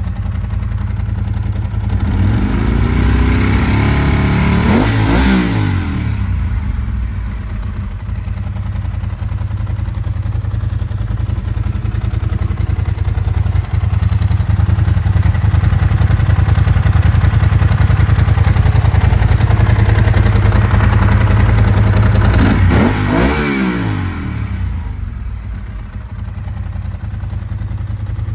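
2000 Ducati 748's 90-degree V-twin engine running and being revved: pitch rises and falls back about four seconds in, then it is held louder through the middle and drops back to idle near the end.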